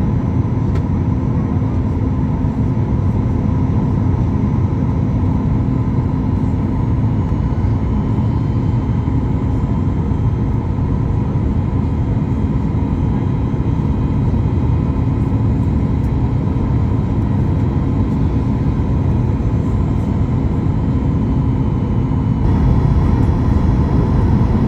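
Steady cabin noise of a Boeing 737 MAX 8 in flight on approach, from its CFM LEAP-1B engines and airflow, heard from a seat inside the cabin: an even rumble with a faint steady hum. The level rises slightly near the end.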